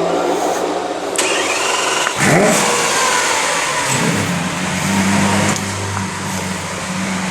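A car engine accelerating hard and passing close by, which the spotter takes for a V8. Its pitch drops sharply as it goes past about two seconds in, and a steady, lower engine note follows.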